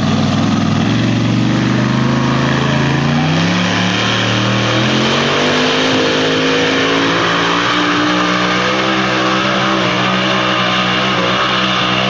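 Pulling truck's engine running hard under full load as it drags the weight sled, its pitch climbing over the first few seconds and then holding high and steady.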